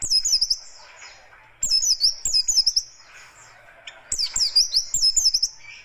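White-eye (pleci) singing a rough, rapid-fire song: three bursts of fast, high chirps, the first right at the start, the second from about a second and a half in, the third from about four seconds in. Softer twittering fills the gaps between bursts.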